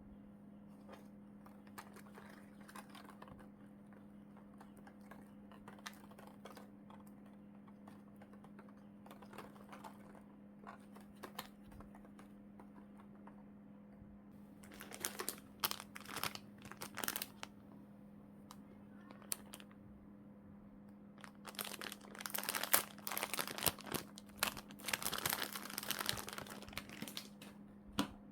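Plastic packaging crinkling as it is handled and unwrapped: light scattered rustles and taps at first, then louder spells of crinkling about halfway through and again over the last several seconds. A faint steady low hum runs underneath.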